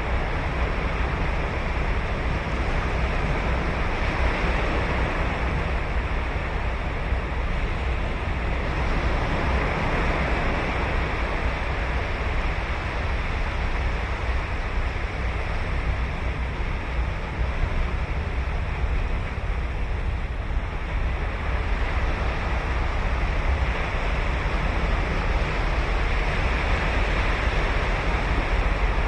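Ocean surf breaking and washing onto a sandy beach, a steady rush of waves that swells and eases every several seconds, with a deep low rumble underneath.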